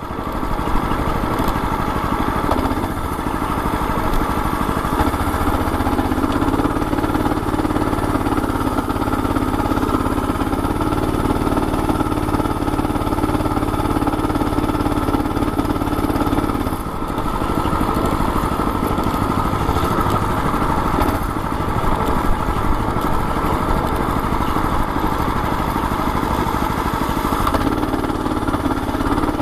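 Predator 212 single-cylinder four-stroke engine on a mini bike, running steadily, with a brief drop in level a little past halfway before it carries on.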